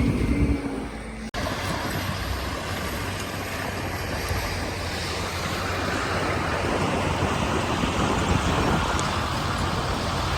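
Truck running: a steady engine rumble with road noise, briefly cutting out about a second in and then growing slightly louder.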